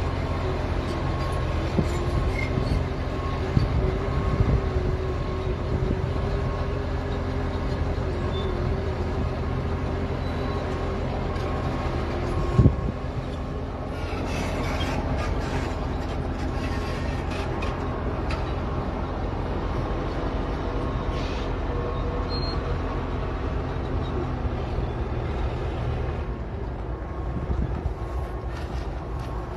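Heavy diesel machinery running steadily at a rail derailment cleanup, with a repeating beep and one sharp metallic clank about halfway through.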